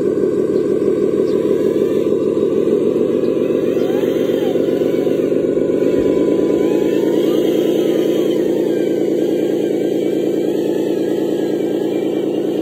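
Heavy truck engine sound running steadily at a low, even idle, with a small click and a slight change in the engine note about six seconds in.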